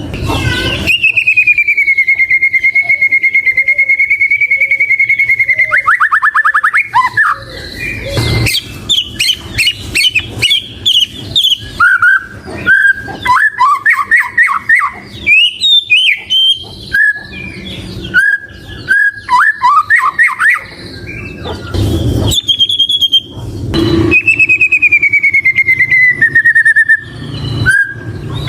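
White-rumped shama singing a varied song. It opens with a long held whistle that ends in a fast buzzy trill, goes on through many quick chirps and gliding notes, and closes with another long falling whistle. A few sharp clicks fall between the phrases.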